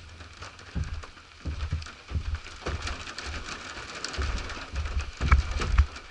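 Rain pattering, with irregular low thumps under it; the loudest thumps come near the end.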